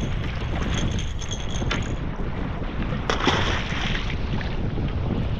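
Wind buffeting the microphone over choppy water lapping against a drifting kayak, with one louder splash of water a little past halfway.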